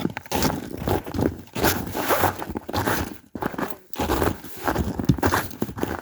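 Footsteps of people walking along a trail, an uneven run of steps at about two a second.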